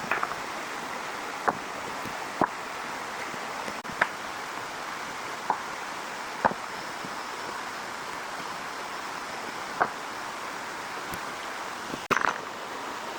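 Steady heavy rain hissing, with a few scattered sharp clicks, about seven in all, the strongest about 4 s in, 6.5 s in and near the end.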